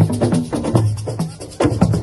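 Live assiko band music: fast, dense hand drumming with sharp strokes several times a second over a repeating low bass line.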